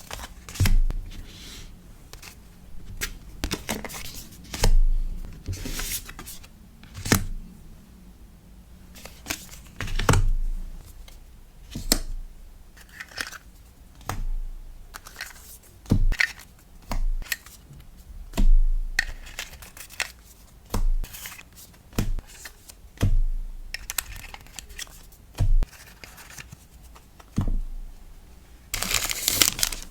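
Close-up handling of packing materials for a sticker order: irregular sharp taps and short paper and plastic rustles, crinkles and tearing, with a louder continuous crinkling starting near the end.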